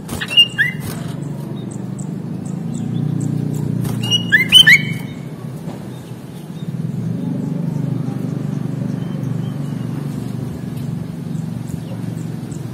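Sooty-headed bulbul giving two short bursts of loud, clear call notes, one about half a second in and one about four seconds later, over a steady low traffic rumble.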